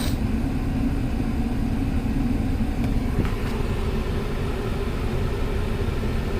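Steady low rumble of a Nissan Pathfinder's idling 4.0 V6 mixed with the dashboard blower fan pushing air through the vents, with a faint click about three seconds in. The air conditioning is switched on but is blowing warm air.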